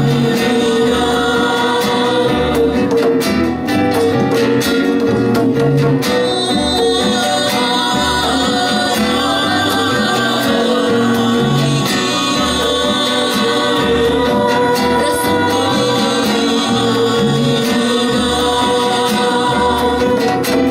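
A band playing a Latin song live with singing, over a bass line that repeats at an even pace.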